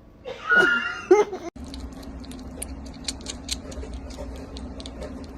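A pet animal's short, sliding, whining cries for about a second. After a sudden cut, a steady low hum with many light, quick clicks.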